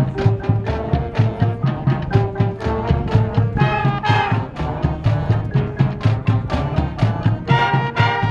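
A marching band playing: brass horns holding chords over a steady beat of marching drums, about two drum hits a second.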